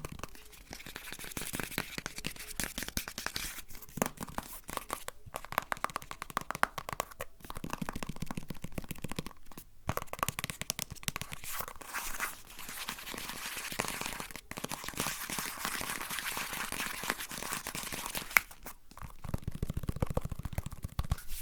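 Close-miked ASMR trigger sounds: dense crinkling, scratching and rustling from hands working an object, in runs broken by short pauses.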